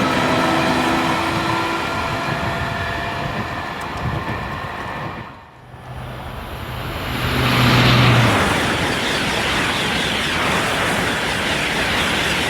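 High-speed trains at a station platform. First the steady whine of a train's traction equipment fades away. Then, after a sudden break about five seconds in, a rushing noise rises to a peak with a low hum in it and holds steady, as another train runs through.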